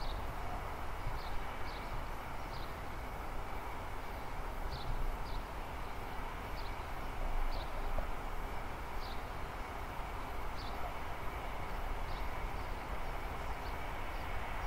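Steady, even rumble of a train running, with no rise or fall. Over it a small bird chirps in short high notes, roughly once a second.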